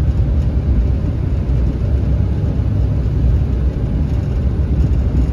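2009 Duramax pickup's 6.6-litre V8 turbo-diesel running steadily while driving, heard as a low, even rumble with road noise above it.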